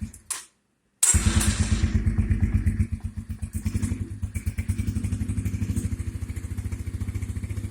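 Dirt bike engine running at a steady low speed with an even pulse. The sound cuts out completely for under a second near the start.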